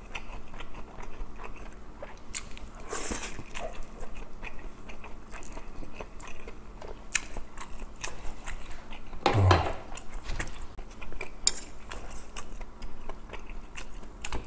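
Close-miked chewing and mouth sounds of eating grilled fish, with small clicks of metal tongs against the fish and plate. There is one louder dull thump about two-thirds of the way through.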